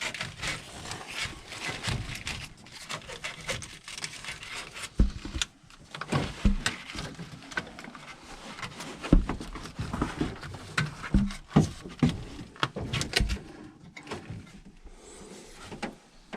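Irregular knocks, taps and rattles of hands working on equipment, a few louder thumps standing out.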